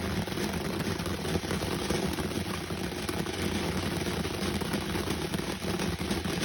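Ground firework from a TNT firework pack burning with a steady rushing spray and fine crackling throughout.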